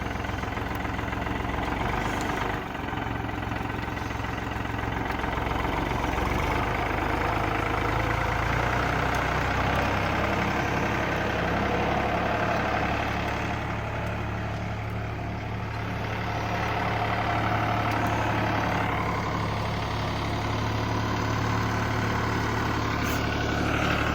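Tractor engine running steadily with a low hum while the tractor works the brush pile.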